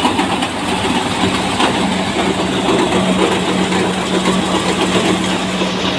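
Tractor engine running steadily with a constant hum, along with the busy rushing clatter of a tractor-driven thresher at work on a lentil crop.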